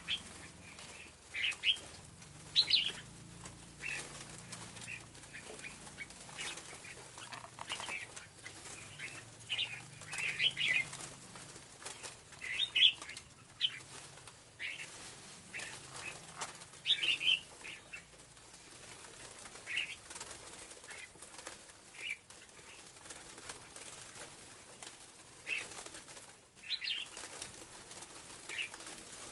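Scarlet-backed flowerpecker calling: short, sharp high chirps repeated at irregular intervals, some in quick little clusters.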